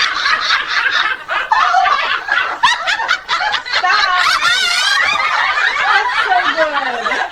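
Several people laughing hard together, overlapping snickers and peals of laughter.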